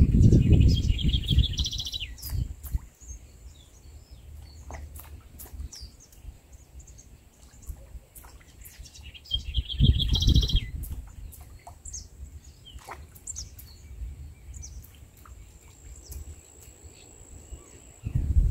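Birds singing and chirping in the open, with one trilled phrase heard twice, near the start and about ten seconds in. Wind buffets the microphone in two low rumbling gusts, at the start and about ten seconds in.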